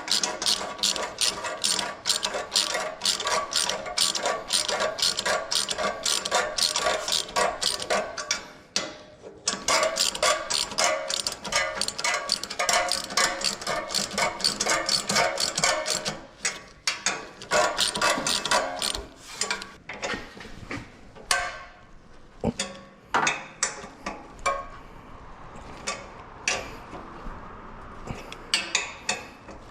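Socket ratchet wrench clicking as it is worked back and forth on a bolt: quick, even runs of clicks for about the first half with a short pause, then slower, scattered clicks.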